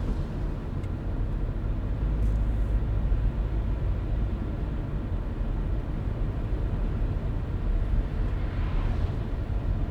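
Car driving at steady speed: continuous low road and engine rumble with tyre noise. A brief swell of higher hiss comes near the end.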